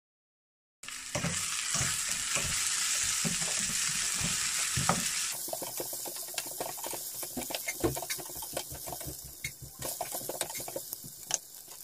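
Onion and garlic sizzling in olive oil in a stainless steel pan while a spatula stirs and scrapes against the pan. The sizzle starts about a second in and is loudest for the first few seconds, then turns quieter, with many short clicks and scrapes of the spatula.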